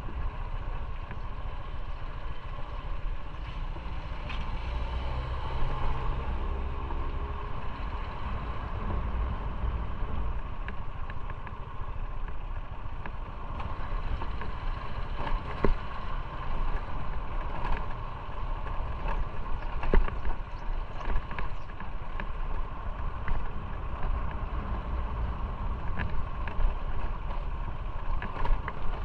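Motorcycle running on the road, a steady engine and road noise with a few sharp clicks along the way.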